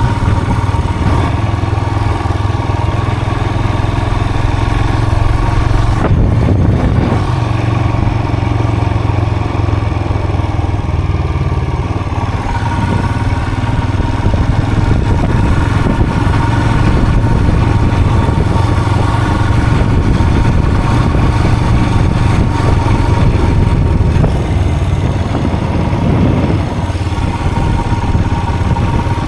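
Vehicle engine running steadily while driving, a low drone with a thin steady whine over it, and a single knock about six seconds in.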